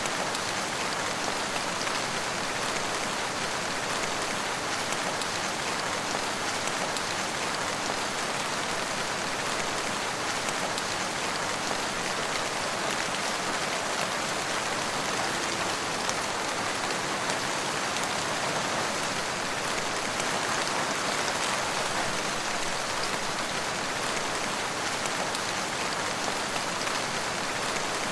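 Steady rain falling on surfaces, an even, unbroken hiss of drops.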